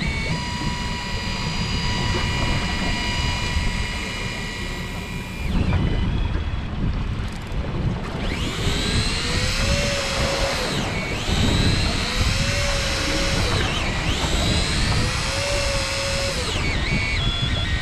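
A small motor whining over low rumble. It holds a steady pitch for the first few seconds, then rises and falls in pitch three times in the second half.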